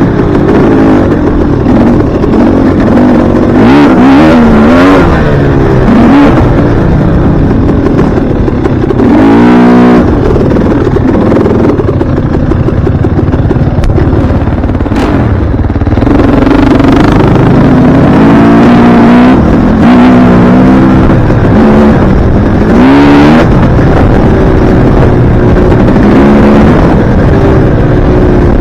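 Dirt bike engine running loud under load, its revs rising and falling again and again with throttle and gear changes.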